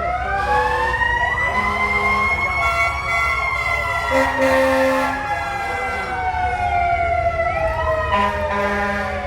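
Fire truck siren wailing, its pitch rising and then slowly falling over several seconds, with short steady horn-like tones sounding on and off underneath.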